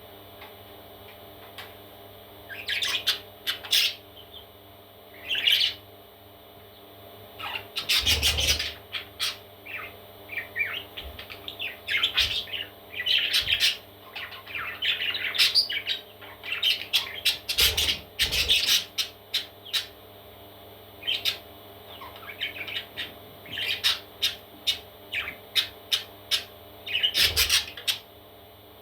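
Parrot chicks calling in clusters of short, high chirps and squawks, with three louder bursts about ten seconds apart.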